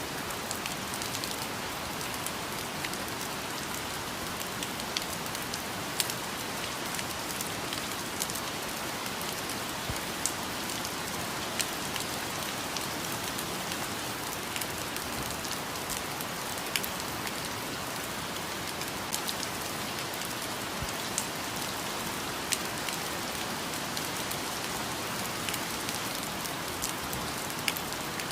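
Steady rain falling on foliage, an even hiss with scattered louder drops landing close by.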